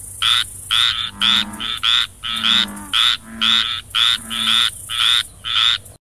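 Frog croaking in a quick series of short calls, about two a second, some with a deeper note beneath them.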